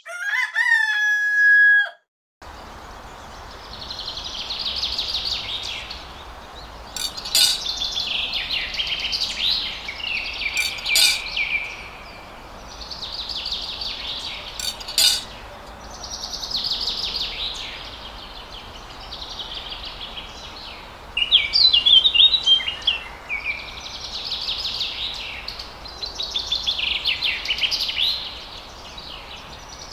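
Birds chirping and singing in repeated short phrases over a steady hiss, with a few sharp clicks. At the very start a short pitched tone slides down and stops.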